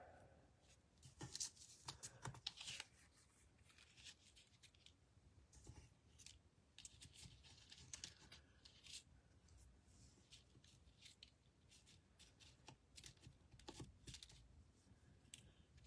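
Faint, scattered rustles and light taps of paper and cardstock pieces being handled and moved about on a work table, a little louder about one to three seconds in.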